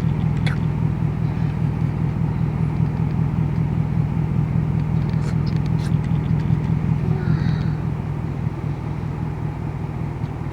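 Vehicle engine running with a steady low hum, without change throughout.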